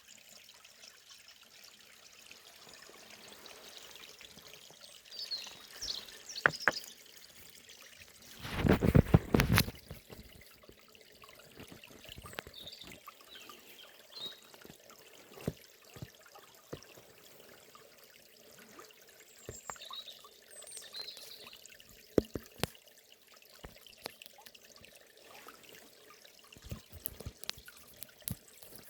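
Forest stream trickling and gurgling in short, uneven splashes, with a louder burst of splashing about nine seconds in. A few faint bird chirps come now and then.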